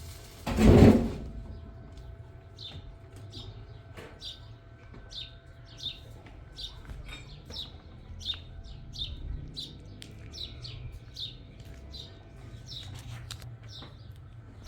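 A small bird chirping over and over, short falling high notes about two a second. A loud rushing burst lasting under a second comes near the start.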